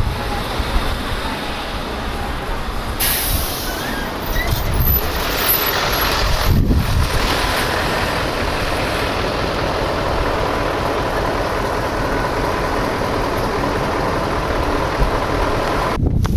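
Steady rushing noise of wind buffeting the microphone over surf, with a faint steady tone in the second half; the rushing cuts off sharply near the end.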